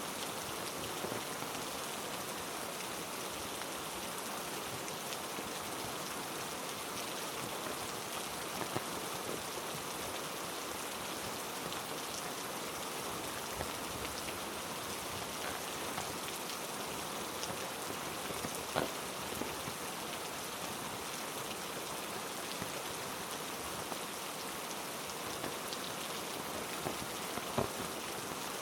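Heavy rain falling steadily, with a few louder single drop hits standing out now and then.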